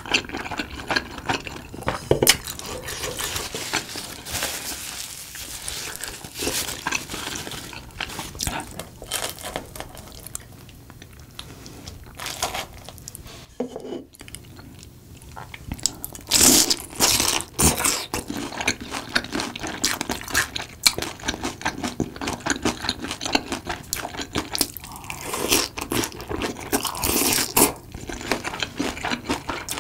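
A person chewing and biting fried Korean snacks soaked in tteokbokki sauce: repeated crisp crunches mixed with wet chewing. There is a brief lull about 14 seconds in, with louder crunching bites after it.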